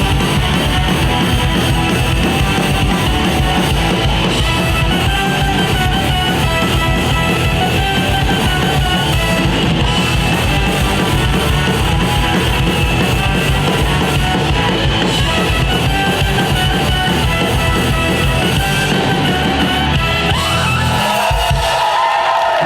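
Live rock band playing an instrumental passage with guitars and drums. The band stops near the end.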